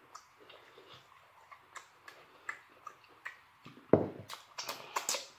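Close-up chewing and lip-smacking of lobster tail meat: scattered soft mouth clicks, then a single louder knock of tableware about four seconds in, followed by a few more clicks.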